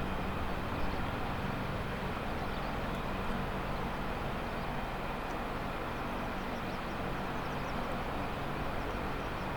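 AH-64D Apache helicopters running steadily, giving an even drone with a low hum.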